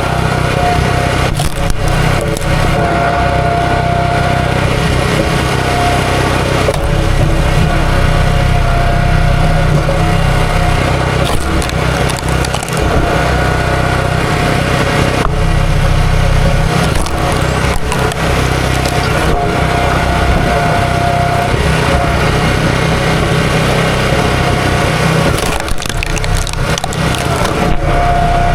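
A small gasoline engine running steadily throughout while wood is worked, with cracking and splintering.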